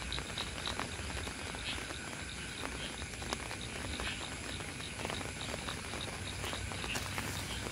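Steady rain falling, with scattered drops pattering and dripping. A small animal's high chirp repeats about four times a second, then thins out over the first few seconds.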